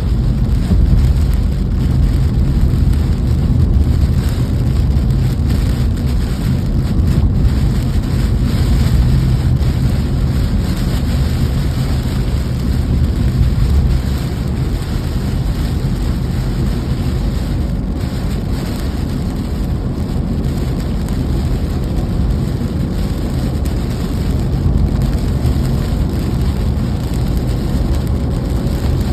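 Steady rain noise with a strong low rumble underneath, continuous and without pauses; the level drops slightly about halfway through.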